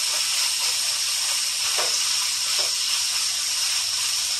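Chicken pieces sizzling in hot oil in a frying pan, a steady high hiss of frying.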